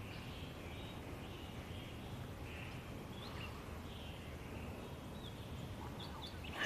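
Faint steady background ambience with soft, distant bird chirps, a few short ones standing out about halfway through and near the end.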